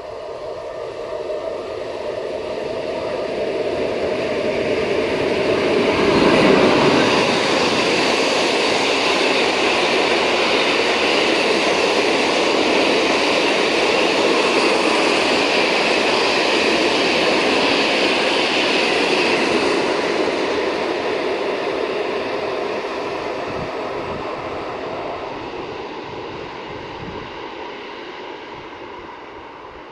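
Freight train hauled by a 060-EA electric locomotive passing on the rails: wheels and wagons rumbling and rattling. It builds up to its loudest about six seconds in, holds steady for some fifteen seconds, then fades away.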